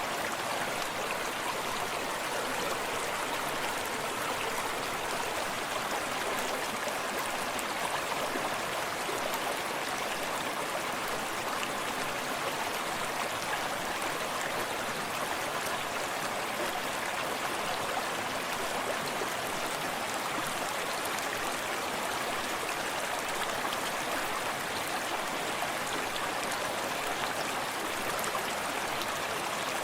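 Forest stream running steadily, water splashing and burbling over rocks.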